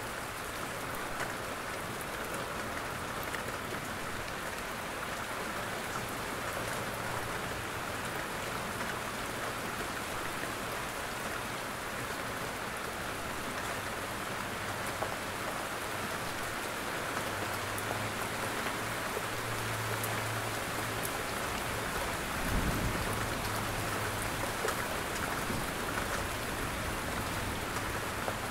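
Steady rain falling on jungle foliage and a roof, with scattered sharper drop ticks. A single brief low thump comes about three-quarters of the way through.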